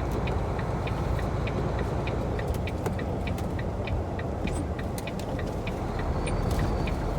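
Tractor-trailer engine running, heard from inside the cab as a steady low rumble, with a turn signal ticking about twice a second.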